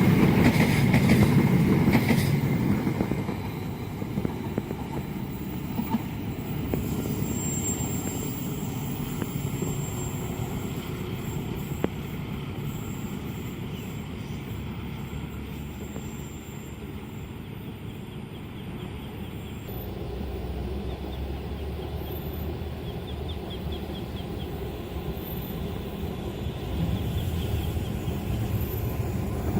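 A train passing on the rails: loud wheel clatter for the first few seconds, dying away into a steady, quieter rumble. The sound changes abruptly about two-thirds of the way through, and a train rumble builds again near the end.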